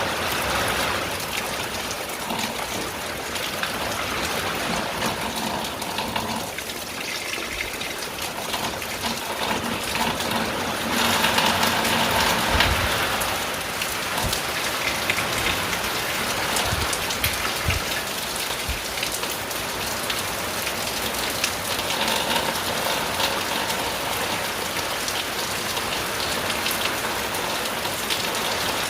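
Steady rain pattering on a tin roof, with dense drop ticks, growing heavier for a few seconds about a third of the way in. A few brief low thuds sound in the middle.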